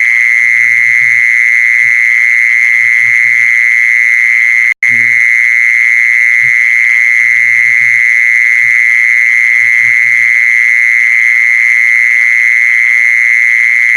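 Animal lure call played back: a loud, continuous high trilling tone that holds one pitch throughout, breaking off for an instant about five seconds in.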